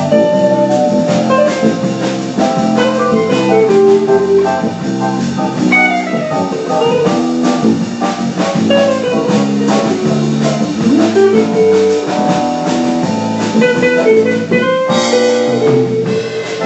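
Music: a jazz combo playing a ballad, with a guitar carrying the melody over chords and drum kit.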